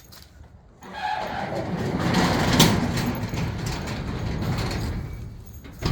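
Garage door closing: a steady rumbling run that starts about a second in, swells, then fades away.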